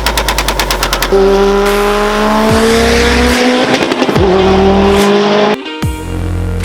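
Audi A4 1.8T turbocharged four-cylinder engine: a rapid, even fluttering chatter for about the first second (turbo flutter), then the engine pulling with a pitch that rises slowly for several seconds.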